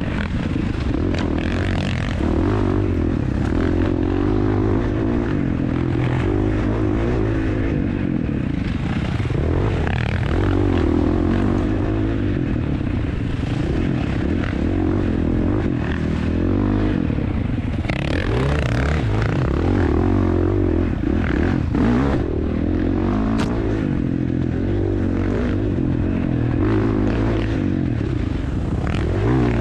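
Dirt bike engine revving up and down as the bike is ridden, its pitch rising and falling with the throttle.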